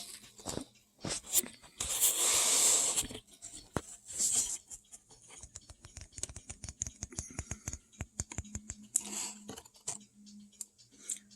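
Small 3D-printed resin model parts being handled and moved on a table: light clicks and taps, with a brief rustle about two seconds in.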